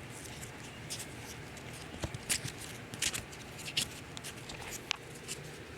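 A sheet of wet 400-grit sandpaper being turned over and refolded by hand: scattered short crinkles and rustles, irregular and several together between about two and four seconds in.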